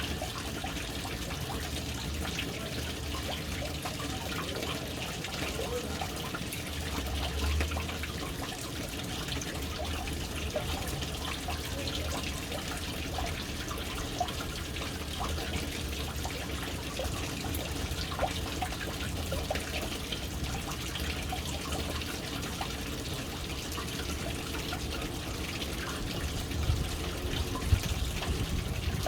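Water falling into a household water tank, a steady splashing trickle with many small drips, a few sharper drips near the end.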